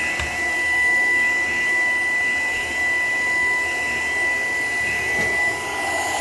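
Shark PowerDetect vacuum cleaner running steadily, its motor giving a high, level whine over the rush of air.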